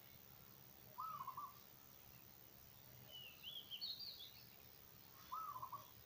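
Two birds calling faintly. One gives a low call, a rising-and-falling note followed by two short ones, twice about four seconds apart. Between those calls, a second, higher-pitched bird gives a quick run of rising chirps.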